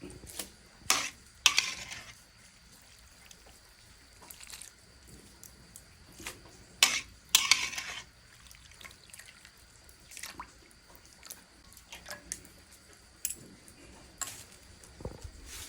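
Kitchen handling sounds while seasoning a bowl of cold noodles: scattered short clinks, taps and rattles of utensils and containers, with soft wet sounds. The loudest clusters come about a second in and again about seven seconds in.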